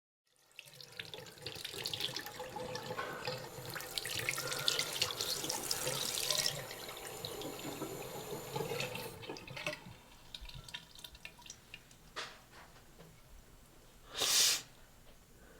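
Water running and splashing, as from a tap into a sink, loudest for the first six seconds or so, then quieter with scattered drips and clicks. A brief loud rush of sound comes about a second before the end.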